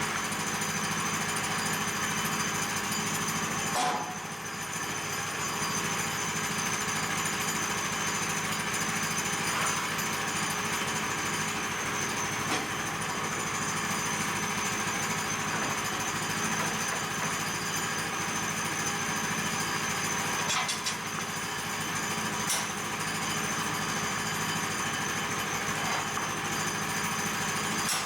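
Woodland Mills HM122 portable bandsaw mill running steadily while resawing a stack of boards, its engine and band blade making a constant mechanical din. The level dips briefly about four seconds in and again about twenty seconds in.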